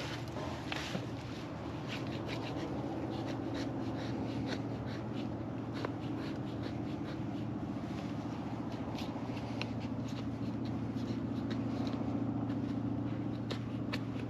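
Knife blade shaving thin curls down a wooden stick to make a feather stick: a run of short, dry scrapes and clicks, each stroke brief and irregularly spaced, over a steady low hum.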